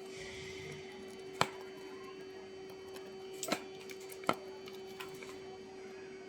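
A steady hum with three sharp clicks or taps: one a little over a second in, then two more around three and a half and four seconds in.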